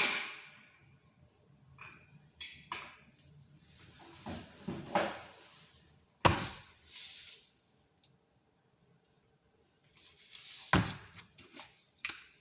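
Kitchen clatter of dishes and utensils being handled: a sharp clink with a short ring at the start, a few lighter clinks and shuffling, and two heavy thunks about six and eleven seconds in.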